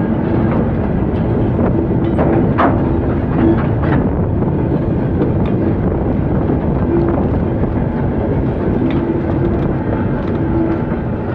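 A train running on the rails: a steady, loud rumble with scattered clicks from the wheels and track.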